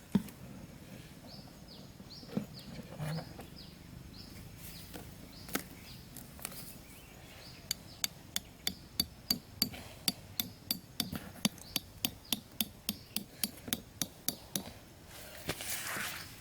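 Repeated sharp tool strikes, about three a second, beginning about eight seconds in and keeping an even rhythm. Before them, a small bird gives short falling chirps.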